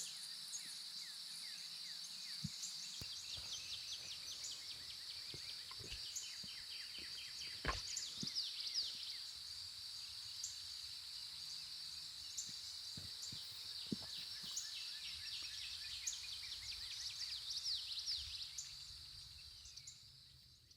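A steady, high insect chorus with many short chirps and quick falling sweeps over it, and a few faint knocks, most noticeable a little under 8 seconds in. It fades out over the last couple of seconds.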